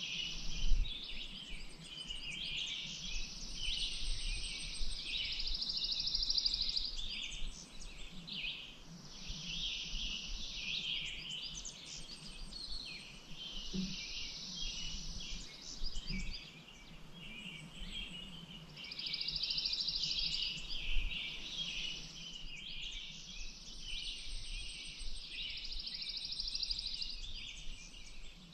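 A dense chorus of many songbirds singing at once, with long buzzy trills that come round every few seconds over a run of chirps and whistles. A faint low rumble and a few low thumps sit underneath, the loudest just under a second in.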